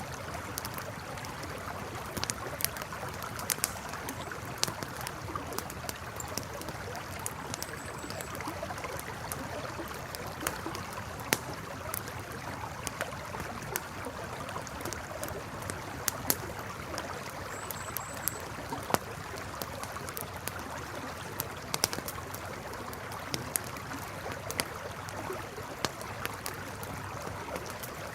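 Campfire crackling with irregular sharp pops over the steady rush of a flowing river. Two brief high chirps come through faintly, one about 8 seconds in and one about 18 seconds in.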